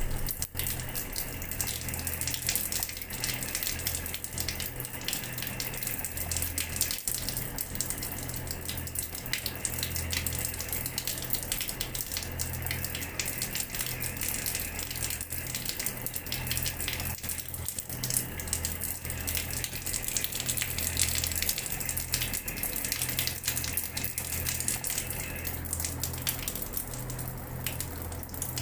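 Water running steadily from a tap and splashing onto a hard floor, an unbroken spatter of falling water with a low rumble beneath.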